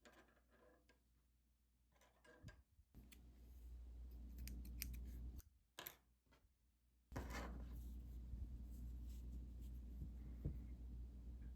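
Scissors snipping several times, short crisp cuts as yarn or mesh is trimmed, over a faint low hum.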